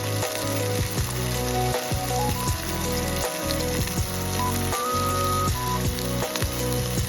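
Food sizzling as it fries in a pan, under background music with held melody notes and a steady bass line.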